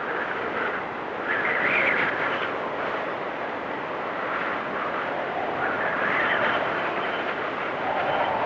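Blizzard wind blowing steadily, with gusts swelling about a second in and again around six seconds.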